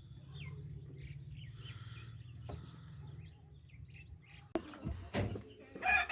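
Birds in poultry cages chirping faintly, short high chirps over a low steady hum. Near the end, a few sharp knocks stand out as the loudest sounds.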